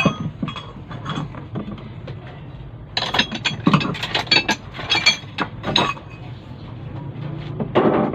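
Metal hand tools and engine parts clicking and clanking as an engine is taken apart, with a dense run of sharp knocks from about three to six seconds in.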